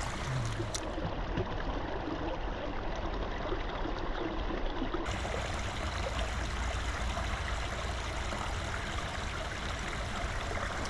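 Small creek running, a steady trickling rush of water.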